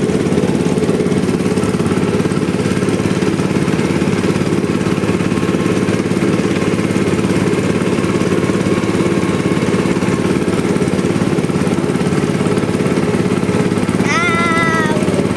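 Tobata two-wheel walking tractor engine running steadily at a constant speed, heard up close from the ride. A short high-pitched call about a second long cuts in near the end.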